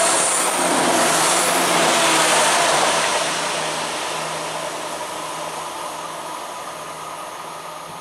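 Class 170 Turbostar diesel multiple unit passing through the station without stopping: a rush of wheel and engine noise with a steady low engine hum, loudest over the first few seconds, then fading away as the train recedes.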